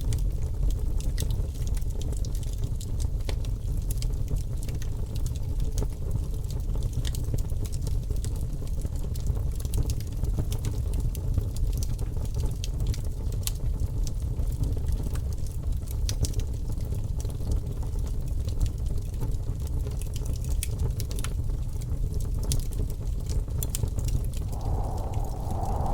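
Wood fire crackling: a steady low rumble with frequent sharp pops and snaps. Another, higher sound joins near the end.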